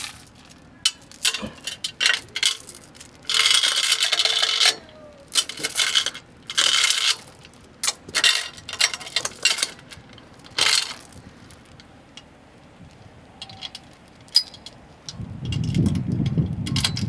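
Metal tow gear being handled: sharp clinks and two longer metallic rattling scrapes, with a low rumble near the end.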